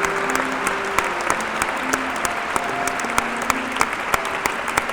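Applause: a dense, even patter of clapping, with a few held notes of music under it.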